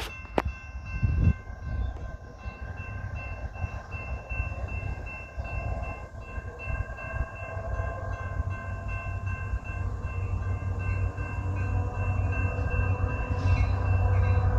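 Metra EMD F59PH diesel locomotive and its train approaching: a low rumble that grows steadily louder, with several steady high tones held over it.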